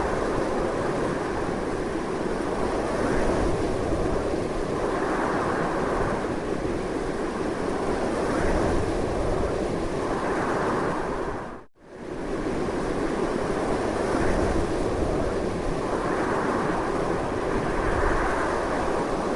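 Strong, continuous wind noise that swells and eases slightly. About two-thirds of the way through it dips abruptly to silence for a moment and comes straight back.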